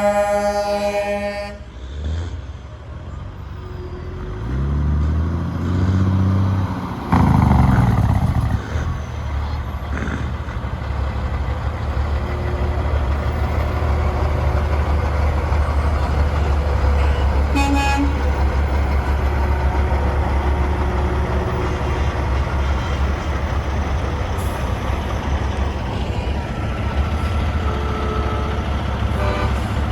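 Semi-trucks passing: a horn blast cuts off about a second and a half in, then a diesel engine revs up with rising pitch and settles into a steady low rumble. Short horn toots come near the middle and again near the end.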